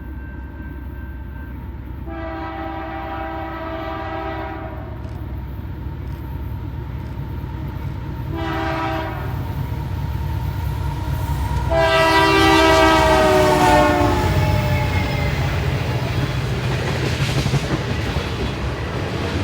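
Diesel freight locomotive passing while sounding its multi-chime air horn: a long blast, a short one, then a louder long blast whose pitch falls as it goes by. Engine rumble and wheels on rail carry on under and after the horn.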